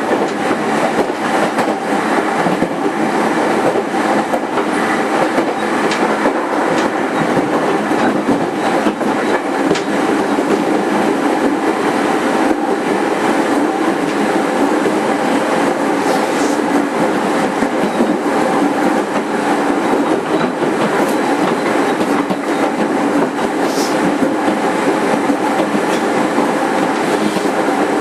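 Running noise inside a JR East 205 series 5000 subseries electric motor car moving at a steady speed: the wheels rumble on the rails, and the level stays even throughout.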